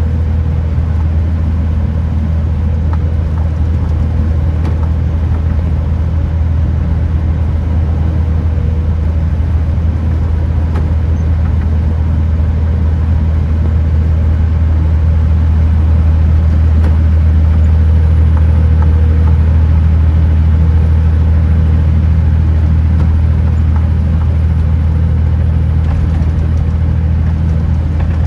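Kenworth T909 truck's diesel engine running at a steady cruise, a deep continuous drone with road noise over it, swelling a little about halfway through.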